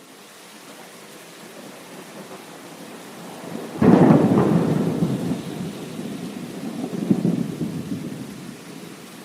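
A thunderclap over steady heavy rain. It breaks suddenly about four seconds in, then rumbles and fades, with a second swell of rumble around seven seconds.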